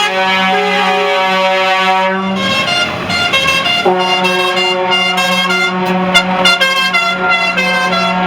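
Truck air horns sounding loudly. A low note is held throughout, first with a steady chord above it. From about four seconds in, higher notes change in quick steps like a horn tune.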